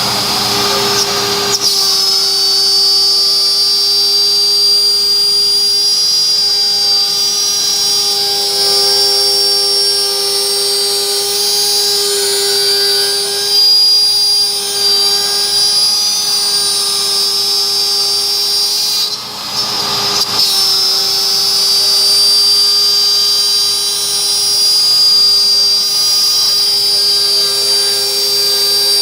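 PROBOTIX CNC router's spindle running with a steady high whine as the bit cuts wood. The sound breaks briefly about two-thirds of the way through, then settles back to the same whine.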